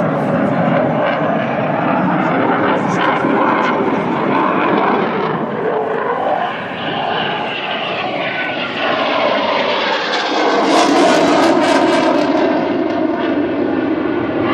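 Eurofighter Typhoon jet fighter flying a display, its twin jet engines making loud, continuous jet noise. The pitch sweeps as it moves past, and the noise grows louder and hissier about ten seconds in.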